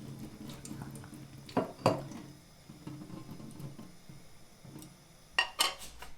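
Kitchen dishes and pots clinking and knocking as they are handled: two pairs of sharp knocks, one about a second and a half in and one near the end.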